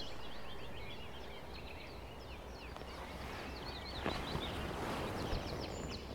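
Woodland ambience: small birds chirping in quick, repeated short notes over a low steady rumble of breeze, with a faint knock about four seconds in.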